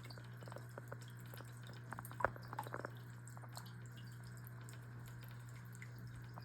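Small gemstone tabletop waterfall running: water trickling and dripping irregularly into the basin, the drips thickest in the first few seconds, over a steady low hum.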